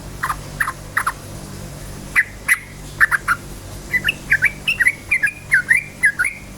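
Yellow-vented bulbul singing: sharp short notes falling in pitch, a few spaced out at first, then a quicker chattering run from about four seconds in. A steady low hum sits underneath.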